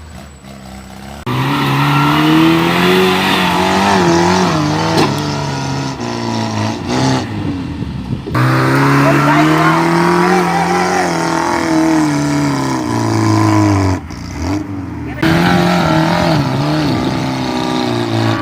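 Off-road vehicle engine revving hard, its pitch rising and falling over several seconds at a time. The sound starts abruptly about a second in and again about eight seconds in, with a brief drop near the end.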